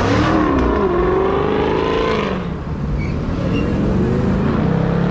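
Dodge Hellcat's supercharged V8 running loud as the car drives through; the engine note dips and climbs in the first couple of seconds, then eases back to a lower, steady rumble.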